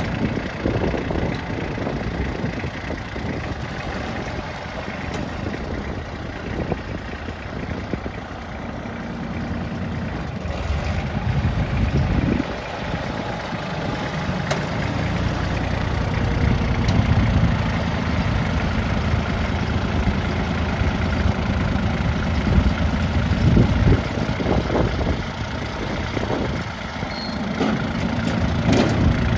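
Kubota L2900 tractor's three-cylinder diesel engine idling steadily, a little louder from about halfway through.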